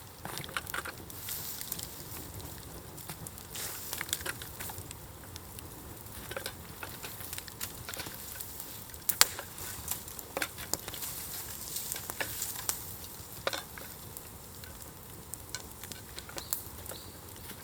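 Bonfire crackling and sizzling over embers, with scattered sharp pops, the loudest about nine seconds in.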